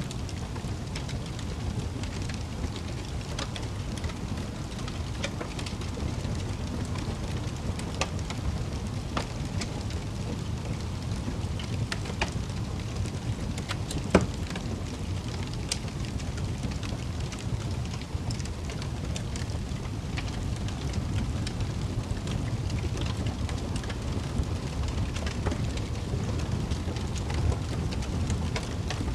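Wood fire crackling in a fireplace: a steady low rumble of flames with irregular small pops and snaps, and one sharp pop about halfway through.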